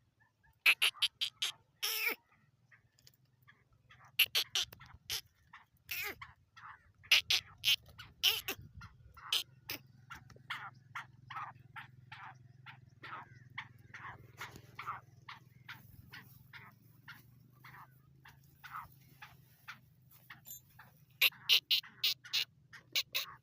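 Birds chirping in quick runs of short, sharp calls, loudest in bursts at the start and near the end.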